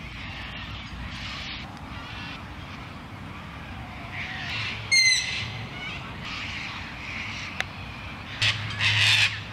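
Outdoor ambience with a steady low rumble, broken about five seconds in by a short, high bird call. A single click comes shortly after, and a few brief rustling noises come near the end.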